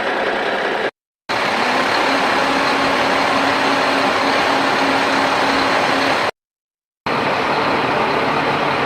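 Steady, loud engine-like running noise of a toy vehicle. It cuts out abruptly to silence twice, about a second in and again near six seconds.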